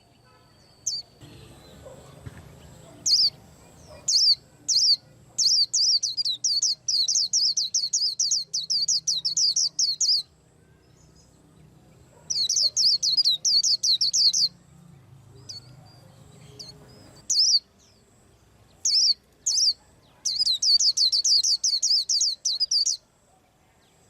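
A white-eye singing: rapid, high twittering runs of chirps. A few short single notes come first, then several long runs of a few seconds each, with pauses between them.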